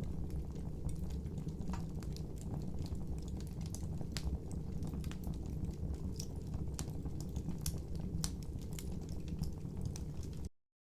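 Wood logs burning in a fireplace: irregular sharp crackles and pops over a low steady rumble of the fire. The sound cuts off abruptly near the end.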